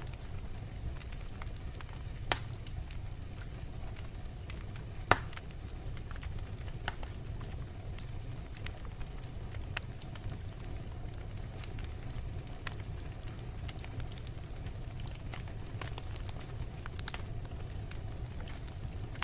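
Wood logs burning in a fireplace: a steady low rumble of the flames with scattered sharp crackles and pops, two louder pops about two and five seconds in.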